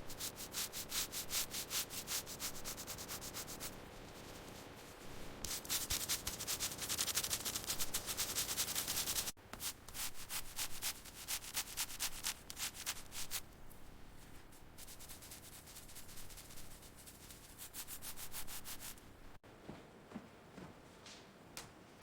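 Rhythmic rubbing strokes like hand sanding or scrubbing, several strokes a second, breaking off and changing abruptly about nine and nineteen seconds in.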